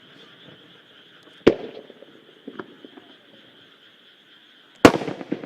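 Two aerial firework shells bursting about three and a half seconds apart, each a sharp boom followed by a rumbling echo, the second the louder. Behind them, a steady high-pitched chorus of calling animals.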